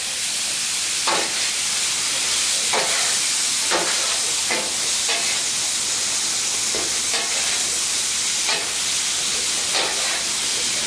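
Shrimp in garlic butter and white wine sizzling with a steady hiss on a hot flat-top griddle as the wine's alcohol cooks off. A metal spatula scrapes and knocks against the steel plate about once a second, irregularly, as the shrimp are stirred.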